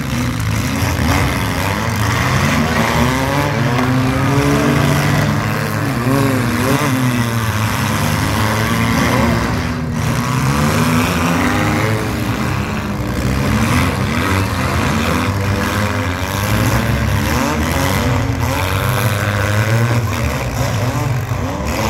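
Several compact demolition derby cars' engines running hard together, their pitch rising and falling again and again as the drivers rev and ease off over a constant low rumble.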